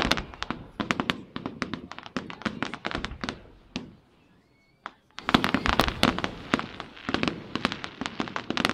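Aerial fireworks bursting overhead: quick runs of sharp cracks and bangs. A short lull comes about four seconds in, then a denser, louder volley.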